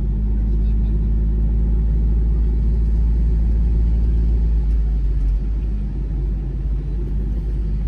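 Ford Bronco Badlands engine idling in neutral, a steady low rumble with an even hum and no revving.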